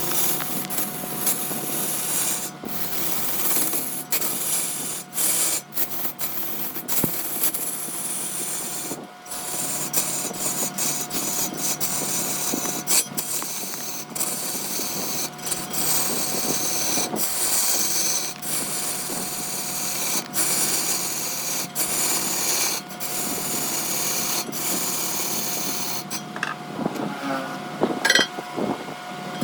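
Large wood lathe running while a turning tool works the spinning wood: a continuous rasping hiss over a steady whine, broken by short drops every few seconds.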